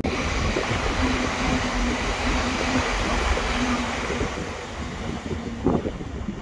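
Passenger train passing at speed on the near track: a steady rushing of wheels and air with a steady hum running through it, easing slightly near the end.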